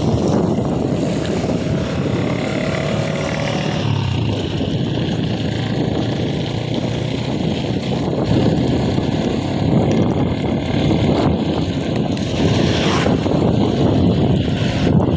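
Steady heavy rumble of wind buffeting the microphone of a camera carried on a moving bicycle.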